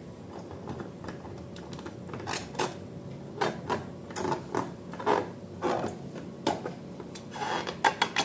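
Hands working slime-making materials: a run of irregular short clicks and sticky crackles, growing busier and louder near the end.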